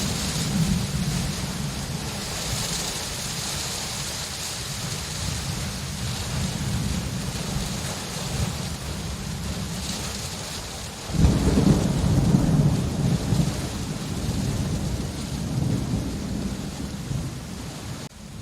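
Steady rain falling in a thunderstorm, with thunder rumbling low underneath. About two-thirds of the way through, a louder peal of thunder breaks in suddenly and rolls on for several seconds.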